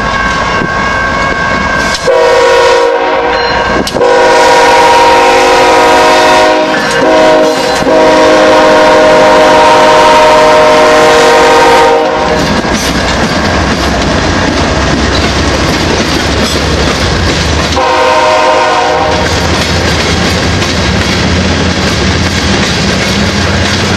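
BNSF freight train's GE Evolution-series diesel locomotives sounding their air horn for a grade crossing: a pattern of long, long, short, long blasts ending about twelve seconds in, then one more brief blast, as the locomotives pass close by. After that, hopper cars roll past with a steady rumble and wheel clatter on the rails.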